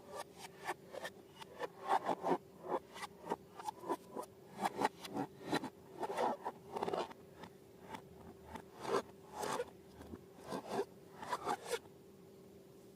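Slime and rubber balloons being handled: an irregular run of short crackling, scraping clicks, a few a second, over a faint steady hum.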